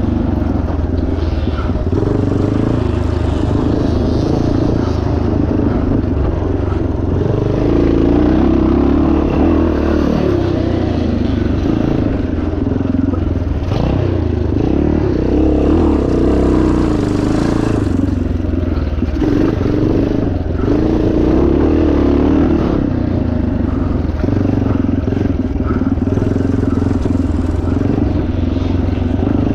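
1977 Yamaha TT500's single-cylinder four-stroke engine running under load off-road, its pitch rising and falling as the throttle is opened and closed, with a few brief knocks from the bike.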